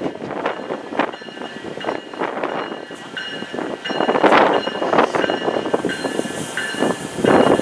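Approaching diesel-hauled train, its noise swelling in uneven rushes. From a few seconds in, a bell rings steadily about once a second as it comes in.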